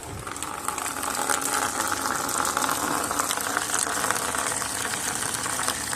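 Flush water running out of the opened radiator drain and splashing into a container. The flow starts suddenly and grows a little louder over the first second, then holds steady.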